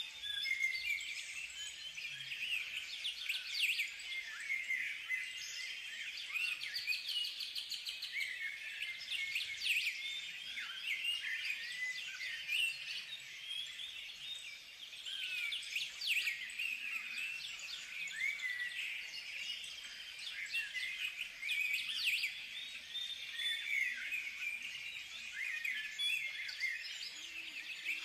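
Several birds chirping and singing together without pause, many short quick calls overlapping.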